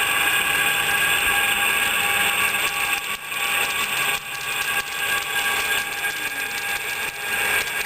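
Model trains running on the layout track: a steady mechanical whine with several held high tones over a rushing noise, dipping briefly about three and four seconds in and again near the end.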